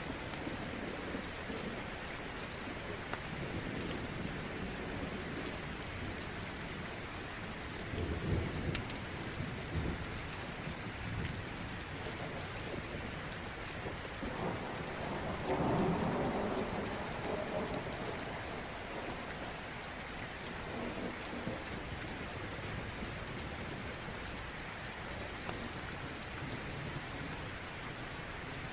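Steady heavy rain falling, with low rolling thunder rumbling twice, about eight seconds in and again around fifteen to seventeen seconds in.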